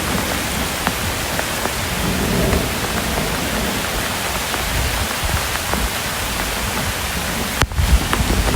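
Steady rain with scattered drip ticks, under a low rumble of distant thunder. There is a brief break in the sound near the end.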